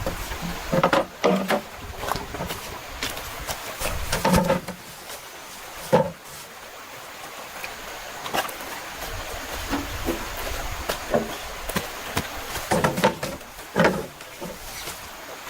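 Irregular knocks and thuds, about nine or ten scattered sharp hits, of bamboo being worked and handled.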